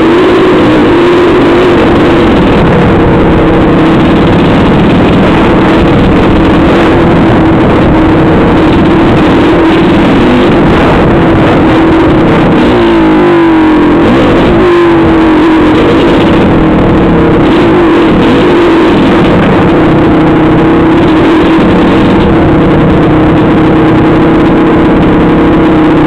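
A motor engine running steadily, with a short swell in engine speed about halfway through.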